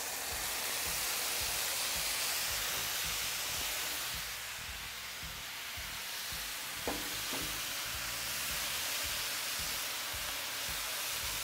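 Precooked potatoes coated in chicken fat sizzling on the hot steel top of a Blackstone flat-top griddle, a steady hiss of frying. A couple of short knocks come about seven seconds in.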